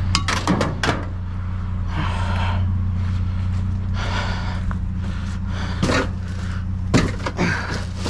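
A vehicle engine idles steadily underneath. Over it come clicks and knocks of scrap being handled and loaded, a cluster at the start and a few more near the end, and two short rustling stretches about two and four seconds in.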